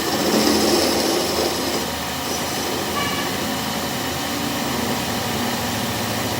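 A workshop machine or power tool running steadily, louder for the first two seconds or so.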